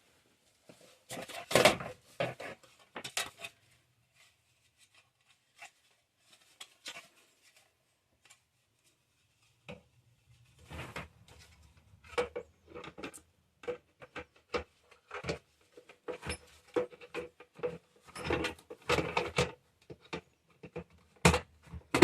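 Plastic parts of a bird feeder being handled and fitted together: irregular clicks, knocks and rattles, a cluster in the first few seconds, then a quiet stretch, then many more from about ten seconds in.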